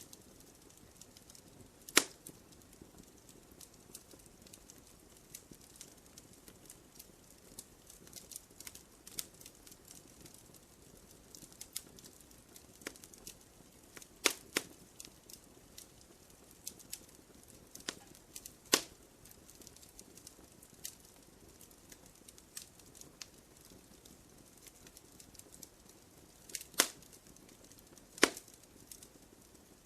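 Wood fire crackling in a fireplace: a steady scatter of small crackles with about five sharp, louder pops from the burning logs.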